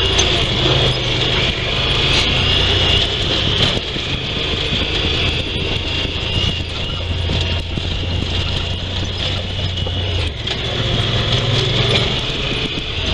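Honda Pioneer 1000 side-by-side UTV's 999 cc parallel-twin engine running steadily, heard from the cab, with scattered knocks and rattles as it goes over the rough creek crossing.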